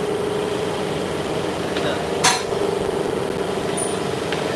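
Steady machine hum with a single sharp metallic clank about halfway through and a couple of lighter clicks around it.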